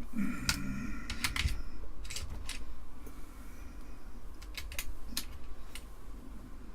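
Scattered sharp clicks and taps of a desoldering tool and metal against a circuit board, with a short hum in the first second or so.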